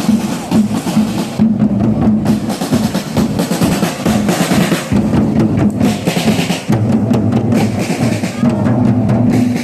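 Procession band drums playing, snare and bass drum beating fast and continuously, with a held note underneath.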